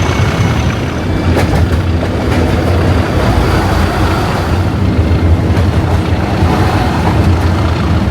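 English Electric 12CSVT V12 diesel engine of Class 37 locomotive D6700 running, heard from on board as a loud, steady deep rumble.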